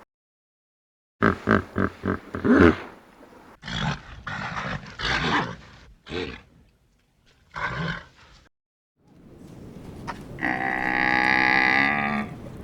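A sequence of animal calls from different clips: a quick run of five or six short pulsed calls, a few shorter rough calls, then one long pitched call about ten seconds in.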